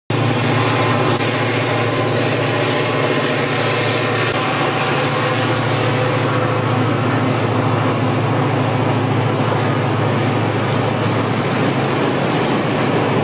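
Diesel-hauled freight train of tank wagons passing, the locomotive giving a steady low drone over continuous rolling noise from the train.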